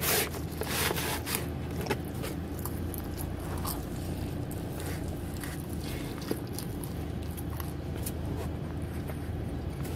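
Close-up biting and chewing of pepperoni pizza, with irregular clicks that come thickest in the first two seconds, over a steady low hum.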